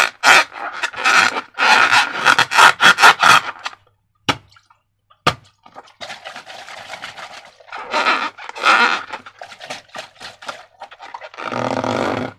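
Slime being squished and worked by hand, making irregular wet squelching and crackling sounds, with a pause broken by two sharp clicks about halfway through.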